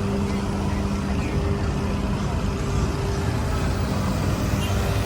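Vehicle noise: a steady low rumble with a humming engine tone that fades out about two seconds in.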